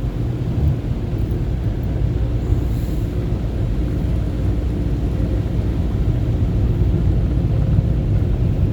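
Car wash air dryer blowers heard from inside the vehicle cabin: a loud, steady, deep rushing roar.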